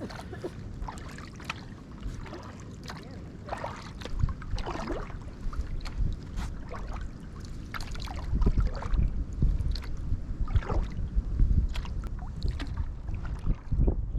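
Kayak paddles dipping and splashing in the water, with water dripping off the blades. Wind rumbles on the microphone, growing stronger in the second half.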